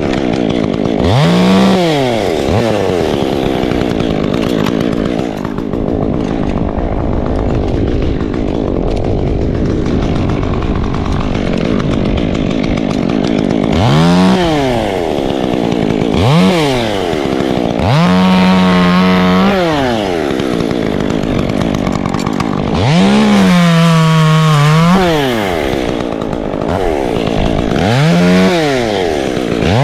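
Chainsaw revving up to full throttle and dropping back to idle again and again, about seven times, sometimes held at full speed for a second or two.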